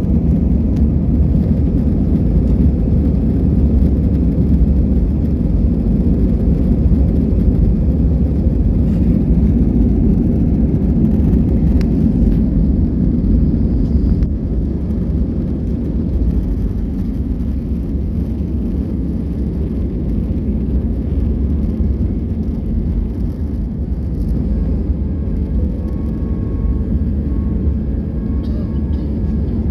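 Airliner cabin during the takeoff run: steady, loud low rumble of the jet engines at takeoff power and the aircraft rolling, easing a little after about fifteen seconds.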